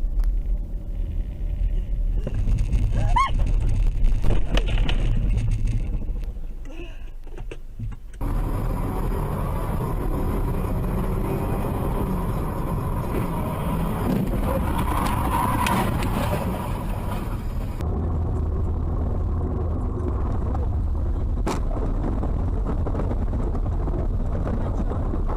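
Car engine and road noise, mostly steady, as heard from a moving car. The sound changes abruptly about eight seconds in and again near eighteen seconds.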